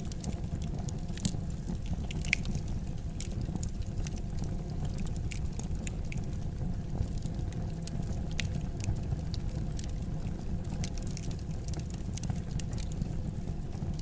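Fire crackling in a fireplace: irregular sharp snaps and pops scattered over a steady low rumble of the burning fire.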